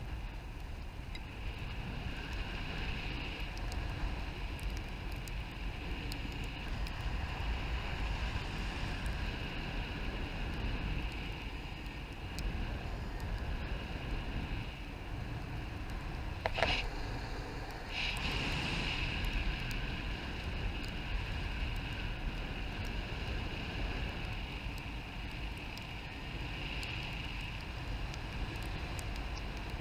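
Steady wind buffeting the microphone in flight, a constant low rumble with a wavering rush above it. A sharp click about sixteen seconds in and another a second and a half later.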